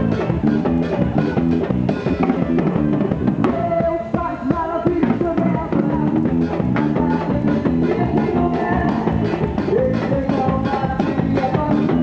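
A live band playing: drum kit keeping a steady, fast beat under electric guitar and bass.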